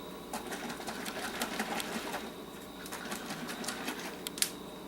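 A run of light, irregular clicks and ticks, many small sharp sounds close together.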